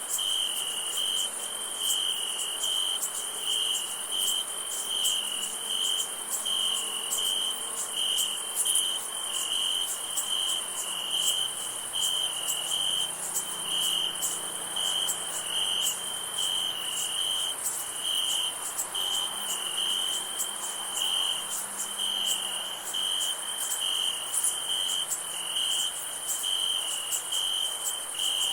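Summer-night crickets chirping in a steady, even rhythm, about two chirps a second, over a continuous high-pitched insect trill.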